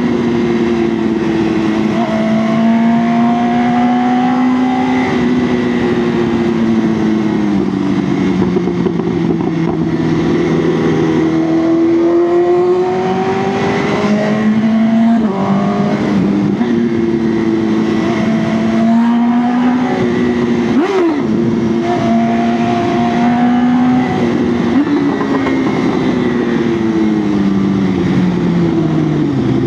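BMW S1000R inline-four engine pulling through the gears on the road: the engine note climbs steadily and drops suddenly at each upshift, several times over. About two-thirds through there is a quick sharp rev up and down, and near the end the note falls away for a long stretch as the bike slows.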